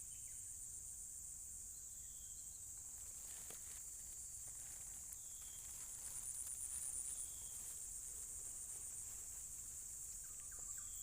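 Steady high-pitched insect chorus from the surrounding swamp, swelling slightly midway, with a few faint short chirps over it.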